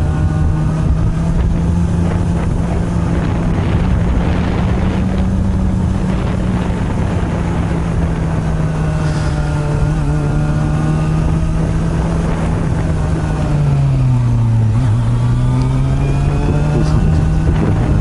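Honda CB400 Super Bol d'Or NC42's inline-four running through an aftermarket r's gear muffler, heard from on the bike under steady throttle while climbing, with wind rushing over the microphone. About fourteen seconds in the revs drop briefly, then rise again.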